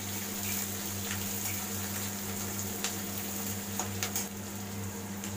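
Chopped onions frying in hot oil in a metal kadhai, a steady sizzle, with a spatula clinking and scraping against the pan a few times as they are stirred.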